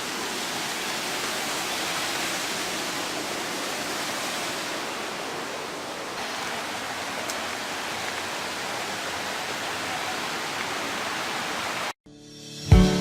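River water rushing, a steady even hiss that cuts off suddenly near the end.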